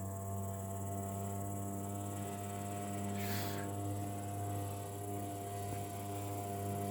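A steady low hum with several even overtones, and a brief falling hiss about three seconds in.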